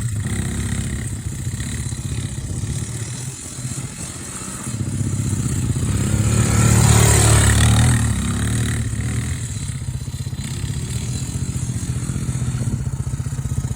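Quad bike engine running, revving up louder for a few seconds about midway with a rush of noise as the bike is pushed round in a drift, then settling back to a steadier run.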